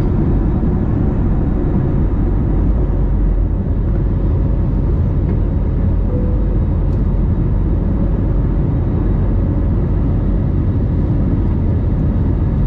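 Steady low cabin noise of an Airbus A321neo airliner heard from inside the passenger cabin: engine and airflow noise with no change in level.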